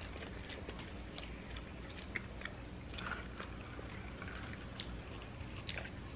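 Close-miked chewing and biting of a toasted sandwich: quiet, scattered small mouth clicks and crunches.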